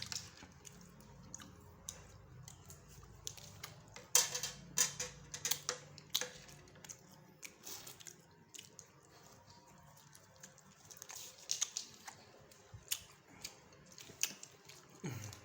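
A person chewing and eating satay and rice cake close to the microphone, with scattered wet smacks and clicks. The clicks come thickest about four seconds in and again near eleven seconds.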